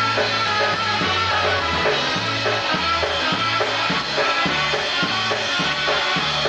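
Live polka band playing an instrumental passage, with a bass line under a steady beat.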